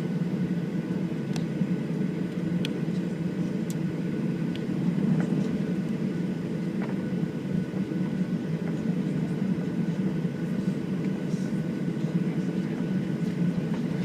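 Steady engine and air drone inside the cabin of a Boeing 737-700 airliner, heard from a window seat, with a few faint clicks.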